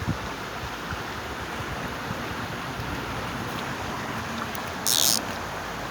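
Steady rush of flowing river water with some wind buffeting the microphone, and one short, sharp hiss about five seconds in.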